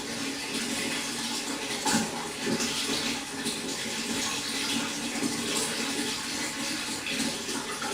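Running water splashing and trickling steadily, with small splashes scattered throughout.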